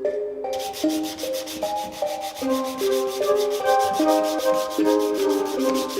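Hand sanding of a car wheel rim with sandpaper: rapid, even back-and-forth rubbing strokes that start about half a second in, with background music under them.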